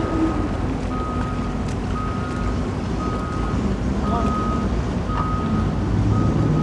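A vehicle's reversing alarm beeping about once a second, each beep a single steady tone, over the low running of engines and wind.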